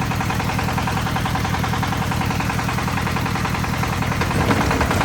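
Concrete mixer's engine running steadily at an even speed, with a fast, regular pulse.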